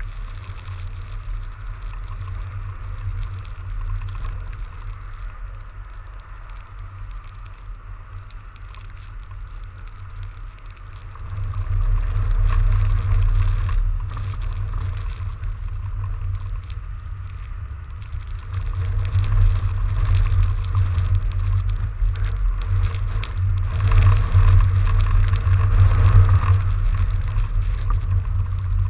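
Wind rumbling on the microphone of a camera riding along on a fat bike in a snowstorm, with ride noise underneath; it gets louder about twelve seconds in and again later on.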